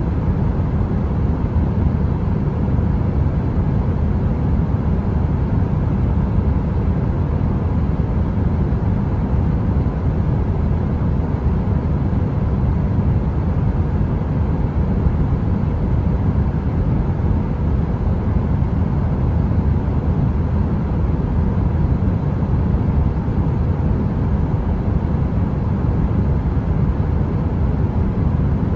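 Steady heater white noise: an even, deep rushing sound like brown noise, with most of its weight in the low end and no crackle, unchanging throughout.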